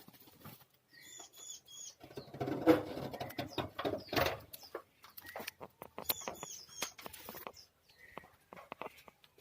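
Bar-winged prinias (ciblek) giving quick, high chirps in two runs of three, about a second in and again about six seconds in. Rustling and clicking sounds of handling fill the middle.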